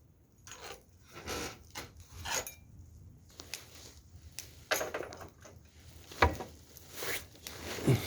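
Firewood being handled at a wood fire: irregular wooden knocks, clatter and short rustling scrapes, with one sharp knock about six seconds in.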